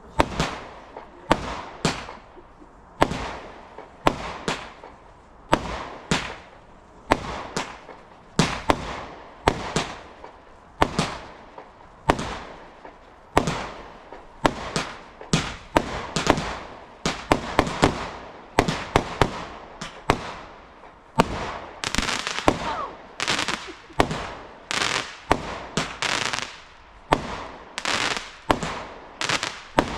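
Garden fireworks going off in a steady run of sharp bangs, about one to two a second, each with a short fading tail; the shots come thicker and faster in the last third.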